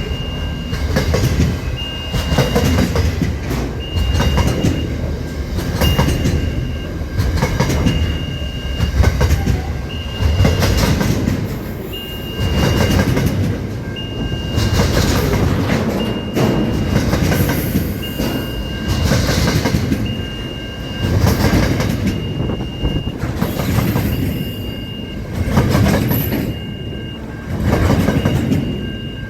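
Aurizon freight train's wagons rolling along the track, a loud clattering rumble that swells and eases every couple of seconds, with a short high tone sounding about every two seconds.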